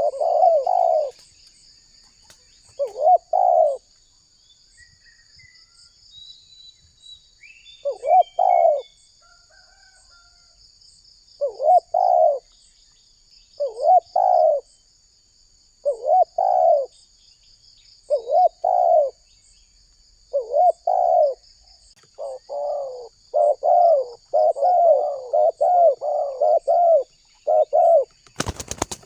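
Spotted dove cooing in repeated phrases, a few seconds apart at first, then in a quick run of calls near the end. A steady high-pitched buzz runs behind it, and a sharp click comes just before the end.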